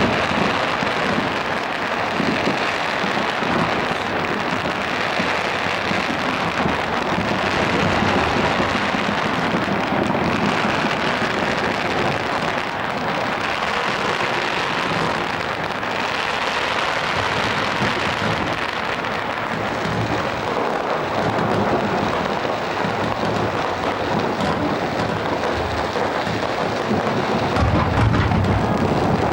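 Fireworks barrage: a dense, continuous crackle with low rumbling booms underneath, and a heavier boom near the end.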